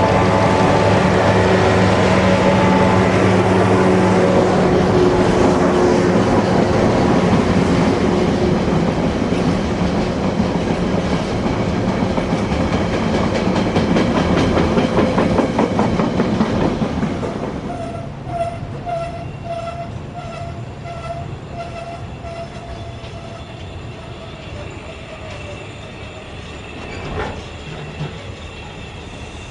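Siemens ER20 diesel locomotive's engine running loud under acceleration, with its wheels clattering over the rail joints as it passes. The sound falls away about seventeen seconds in, leaving a short tone that repeats evenly for several seconds.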